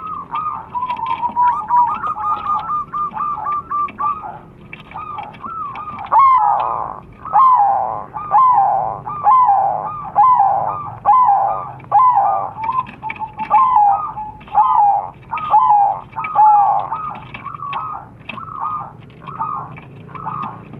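Crossbred zebra doves (perkutut) cooing, several birds calling over one another. From about six seconds in, a louder run of coos comes roughly once a second.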